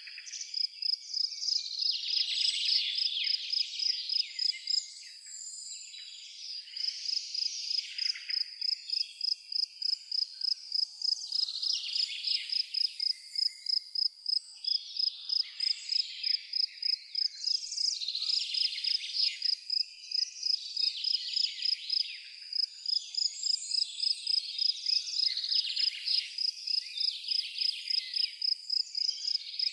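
A cricket chirping in an even run of about three chirps a second, pausing briefly about five seconds in, while birds sing on and off.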